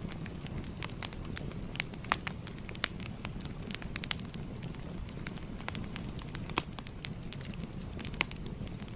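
Wood fire burning with a steady low rumble and irregular sharp crackles and pops, several a second, a couple of them louder than the rest.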